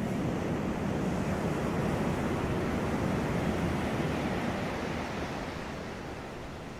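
Sea waves washing onto a beach, a steady rushing surf that slowly fades away in the second half as the wave recedes.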